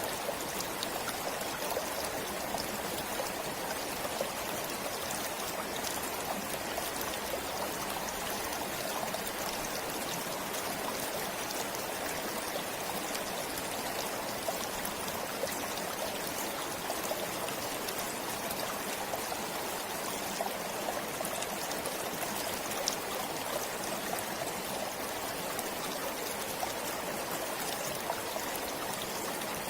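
A forest stream flowing steadily, an even rush of water with fine trickling and splashing over it.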